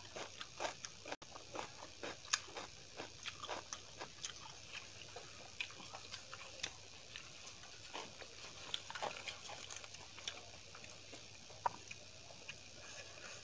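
Close-miked chewing: soft, wet mouth clicks and smacks, irregular, a few each second.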